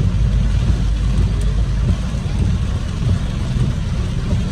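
A car driving in heavy rain, heard from inside the cabin: a steady low rumble from the road and engine under an even hiss of rain and wet tyres.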